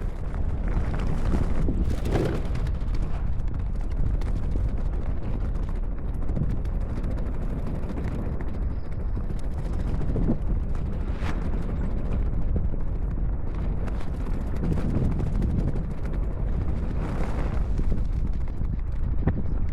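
Wind buffeting the microphone while inline skates roll fast over pavement: a steady low rumble, broken by a few sharp clicks and knocks from the wheels.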